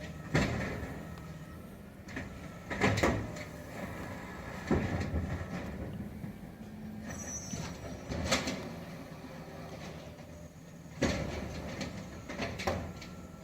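Automated side-loader garbage truck running while its arm tips trash carts into the hopper, with about six clunks and bangs of carts and lids over the steady run of the engine and hydraulics.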